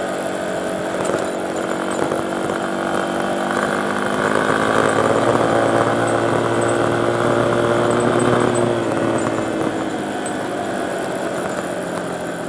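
Small dirt bike's engine running under way. It picks up revs and gets louder about four seconds in, then eases off again near nine seconds.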